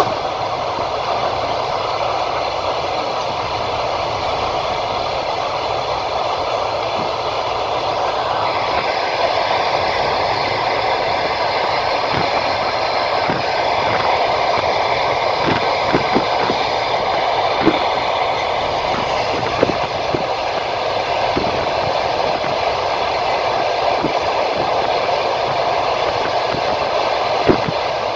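Passenger train coach running along the line, heard from inside: a steady rolling noise of wheels on rails, with scattered short clicks in the second half.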